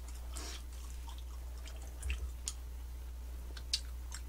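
A few faint, short wet clicks of mouths chewing sticky surichwi tteok (mugwort rice cake), with a sharp click a little before the end, over a steady low electrical hum.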